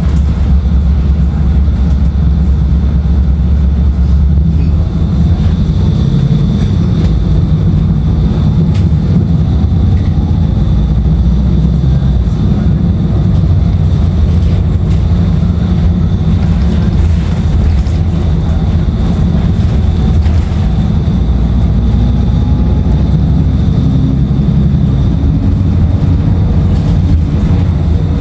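Cummins ISL9 diesel engine and ZF transmission of a 2016 Nova Bus LFS running, heard from inside the bus as a loud, steady low drone. The low engine note changes about four seconds in, and a faint high whine holds steady throughout.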